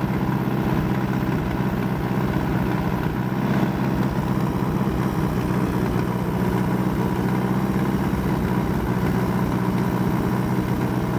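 Allis-Chalmers D14 tractor's four-cylinder engine running steadily at an even note.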